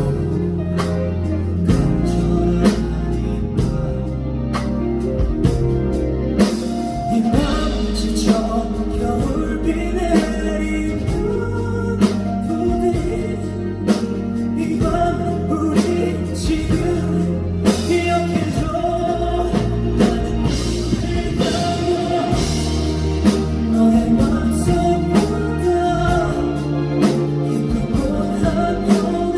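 Live band music: a singer carries the melody over a steady drum beat and guitar.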